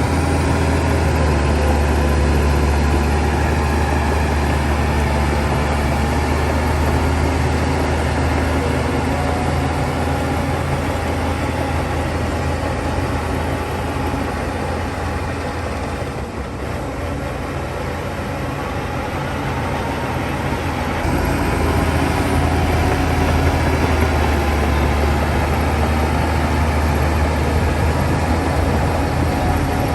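Heavy diesel engine of a Shantui DH17 crawler bulldozer running steadily under work; it eases off a little around the middle and picks up louder again about two-thirds of the way through.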